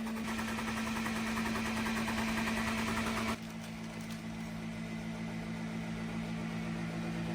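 Car engine running steadily. The sound changes abruptly about three seconds in, at an edit cut.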